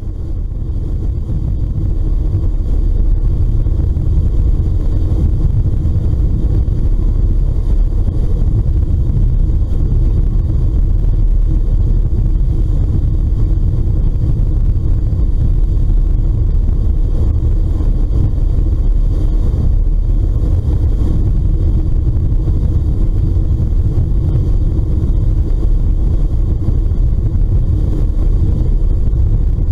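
Steady low rumble on a moving ferry's deck: the ship's engine drone mixed with wind and water noise.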